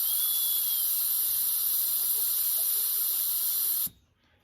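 Compressed air hissing out of a vehicle tyre's valve as the tyre is deflated to a lower pressure for safer driving down a muddy slope. The hiss is steady and cuts off suddenly near the end.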